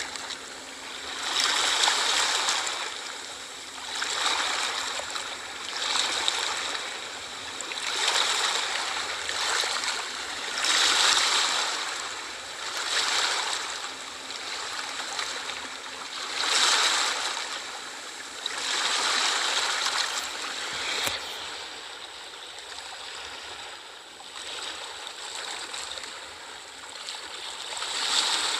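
Small sea waves washing onto a shore, each surge swelling and fading every two or three seconds. They ease off for a few seconds after about twenty seconds, then build again near the end.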